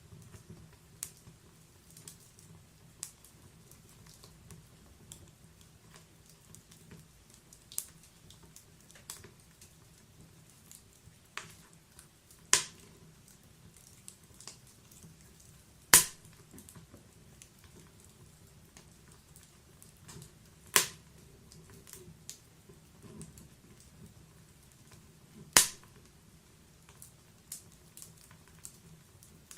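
Wood fire in a log-burning fireplace crackling: scattered small clicks and a few louder sharp pops from the burning logs over a faint low rumble of the flames.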